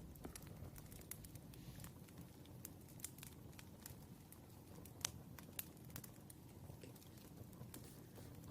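Wood fire crackling faintly, with irregular small pops and one sharper pop about five seconds in over a low rumble.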